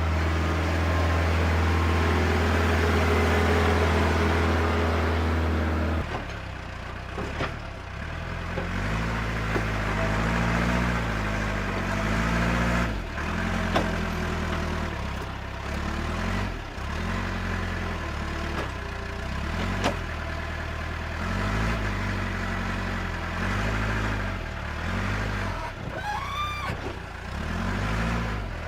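An engine running: a steady low hum at first, then, after a sudden change about six seconds in, revving up and down over and over, about once a second. A short high whistling glide comes near the end.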